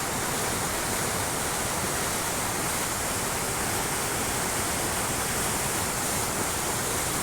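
Swollen river in flood, its water rushing in a steady, even roar.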